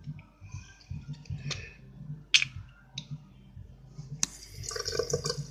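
Small clicks and squishes of a toothbrush and a nearly empty toothpaste tube being handled at a bathroom sink. About four seconds in, a tap is turned on and water starts running.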